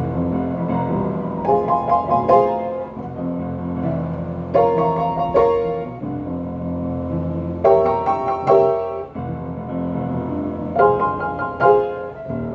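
Slow instrumental music: a piano strikes pairs of chords about every three seconds over held low bass notes.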